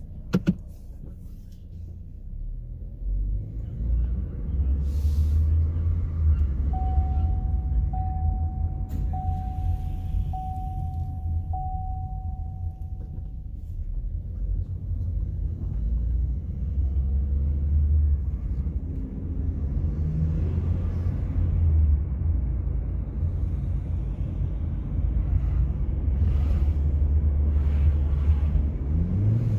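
A 2020 Chevrolet Equinox's 1.5-litre turbocharged four-cylinder engine running and pulling under acceleration, heard from inside the cabin as a heavy low rumble, breathing through its modified stock airbox with an aftermarket K&N filter. Five short beeps at one pitch sound about a quarter of the way in, and the engine note rises in pitch around two-thirds in and again near the end.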